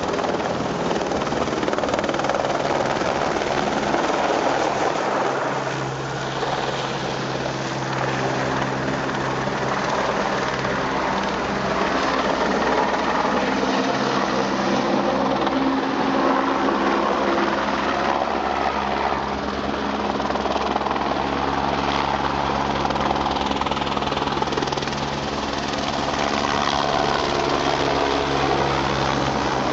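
Firefighting helicopter flying close by with its rotor and engine running steadily throughout, a continuous rushing noise with a few steady low tones that come and go.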